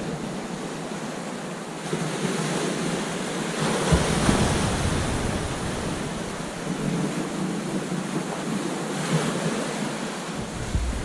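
Ocean waves breaking on a beach: continuous surf wash, with a wave crashing loudest about four seconds in and another swell building near the end.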